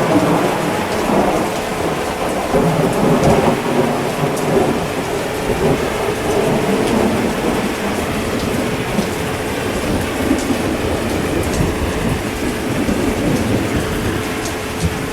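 Steady heavy rain with a long roll of thunder that breaks in suddenly at the start and rumbles on, loudest over the first few seconds before slowly easing. A faint steady hum runs underneath.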